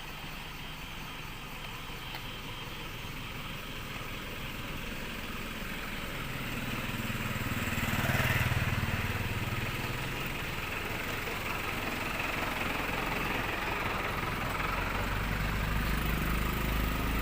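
A vehicle engine running steadily, growing louder to a peak about eight seconds in, then holding.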